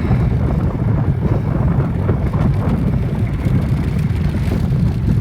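Wind buffeting the microphone of a phone carried on a moving bicycle, a steady low rumble.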